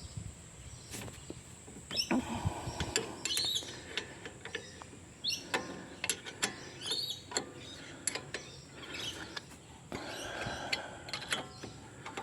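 A spanner turning a 12 mm brake caliper mounting bolt by hand: irregular metallic clicks and short scraping sounds as the bolt is undone.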